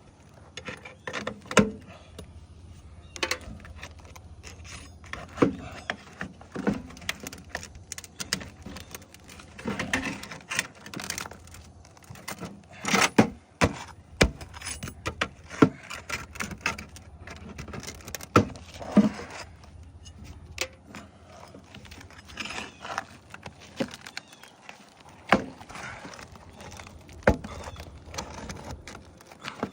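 Scattered clicks, knocks and scrapes of tools and materials being handled, over a faint steady low hum that drops out near the end.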